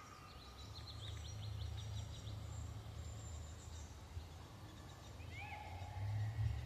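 Forest birds calling: a quick run of high chirps in the first two seconds, then a few shorter calls near the end. Under them is a low rumble of wind on the microphone that swells about a second in and again near the end.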